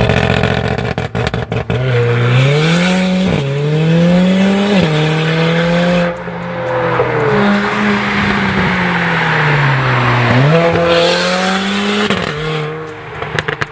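Mercedes-AMG A45's turbocharged 2.0-litre four-cylinder through an Armytrix valved exhaust: a run of crackles and pops, then hard acceleration with the pitch climbing and dropping sharply at two quick upshifts. The engine then winds down before pulling up again near the end.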